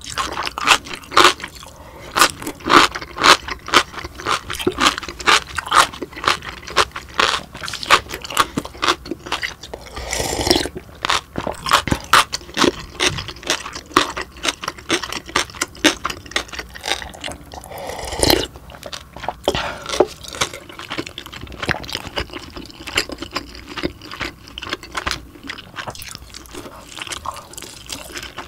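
Close-miked chewing, with a dense run of short crunchy, wet mouth clicks as food such as kimchi and dumplings is eaten. Twice a longer, softer rushing sound stands out.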